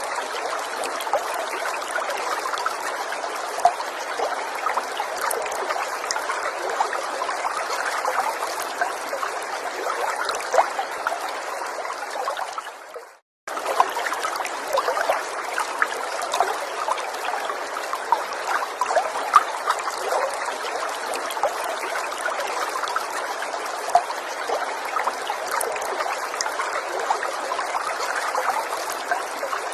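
A small forest stream trickling and babbling steadily, with many small splashes and bubbles. About thirteen seconds in it fades briefly to silence and then starts again, as at a loop joint.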